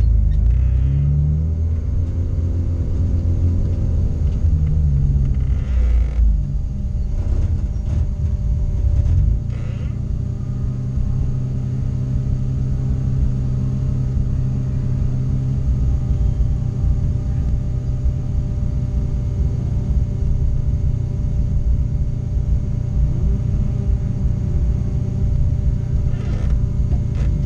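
Race car's engine idling in a stripped, roll-caged cabin while it waits on the hillclimb start line, with brief throttle blips at the start, a few seconds in, and again near the end.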